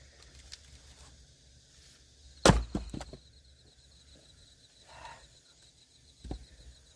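Axe splitting firewood: one loud, sharp strike into a log about two and a half seconds in, followed by a short clatter of wood. A second, duller knock comes near the end.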